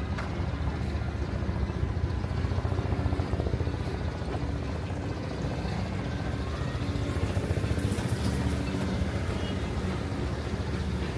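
Steady low engine rumble of motor vehicles, with a rapid flutter and a faint hiss above it.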